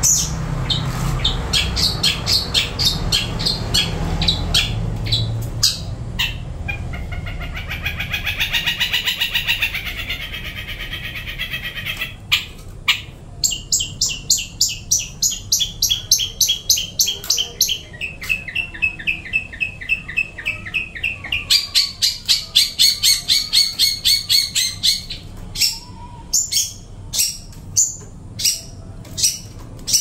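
Caged songbird calling: sharp chirps, then a warbling phrase about eight seconds in, then long runs of rapid repeated notes, ending with separate sharp chirps.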